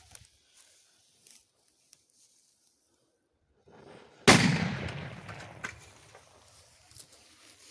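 A K-55 firecracker going off inside an old vacuum cleaner: one sharp, loud bang about four seconds in, with a rumbling tail that fades over a second or so. The blast blows the vacuum cleaner apart.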